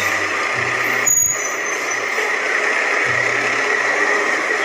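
Fire department aerial ladder truck pulling out, its engine running with a loud, steady rush of noise.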